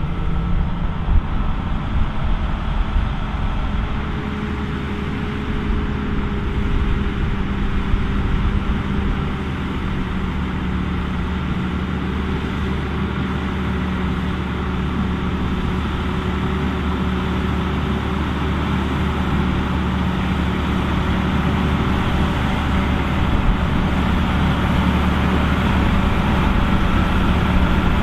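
John Deere 7230R tractor's six-cylinder diesel running steadily under load while pulling a working potato harvester, a constant drone that grows slightly louder toward the end.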